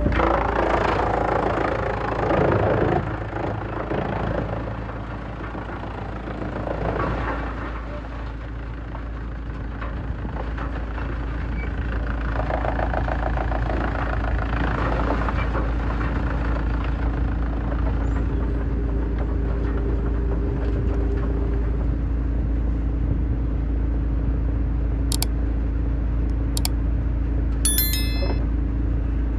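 Heavy-duty wood shredder running with a steady machine hum, with louder bursts of wood being ground up in the first three seconds and again around seven seconds in. A few sharp clicks near the end.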